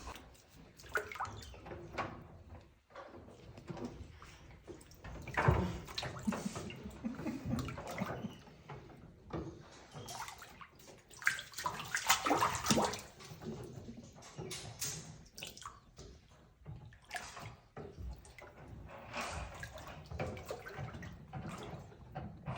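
Water splashing in a bathtub as monkeys bathe, in irregular bursts, loudest about five and twelve seconds in.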